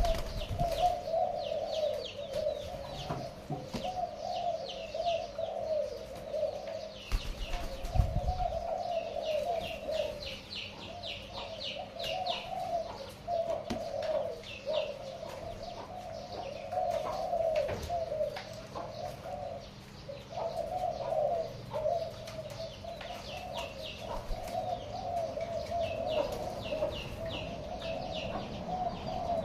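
Pigeons cooing continuously, a rolling, warbling coo, with repeated runs of fast high chirping trills from other birds over it. A short low rustling burst comes about eight seconds in.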